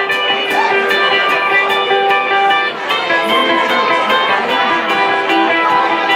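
Live band music: guitar and held, sung-like notes over a steady beat of sharp ticks, about three a second.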